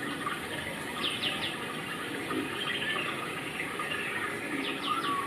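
Steady rushing of running water, with a small bird chirping twice: a quick run of three falling notes about a second in and another near the end.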